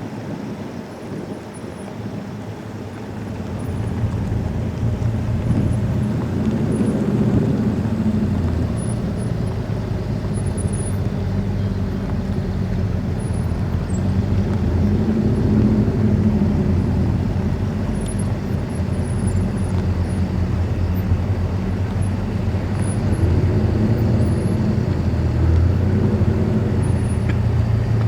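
A car engine running steadily, swelling louder a few times.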